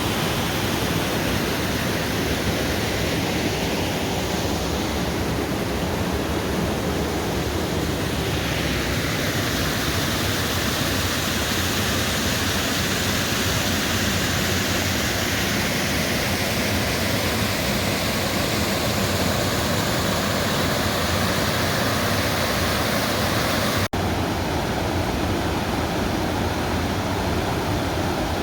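Waterfall pouring: a steady, loud rush of falling water. Near the end it cuts abruptly to a slightly different rush of water.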